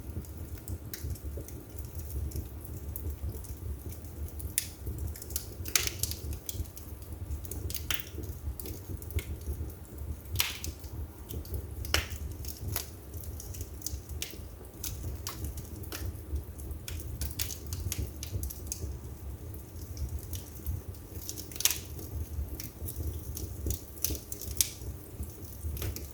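Wood fire burning in a fireplace: irregular sharp crackles and pops of the burning wood over a steady low rumble of the flames.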